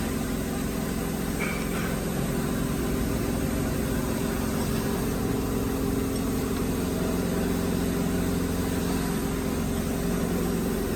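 Workshop machinery running with a steady, even hum made of several constant low tones.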